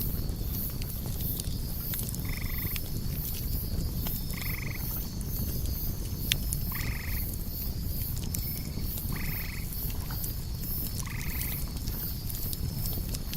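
Campfire crackling over a low steady rumble, with crickets chirping fast and high throughout. A night animal gives a short call five times, about every two seconds.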